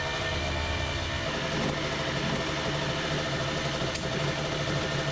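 Two-stroke Honda CR dirt bike engine idling steadily while warming up to operating temperature before an oil change.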